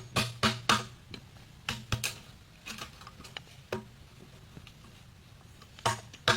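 Repeated sharp knocks on bamboo, as when hacking or tapping bamboo poles with a blade, several a second and uneven in spacing, each with a short hollow ring. They die away about four seconds in and pick up again near the end.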